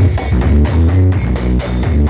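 Loud electronic dance music with a heavy pounding bass beat, played through a large outdoor 'sound horeg' sound system.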